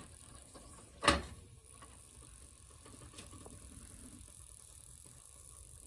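A popcorn kernel pops once in a pot of hot olive oil, a sharp crack about a second in, over a faint steady hiss. It is one of the test kernels, and its popping shows the oil is hot enough.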